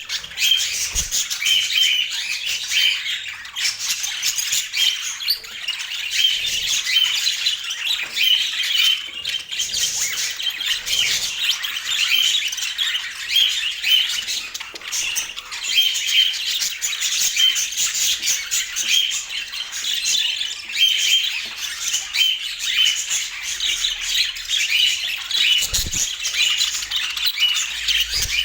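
Budgerigars chattering and chirping continuously in quick, busy runs of high notes.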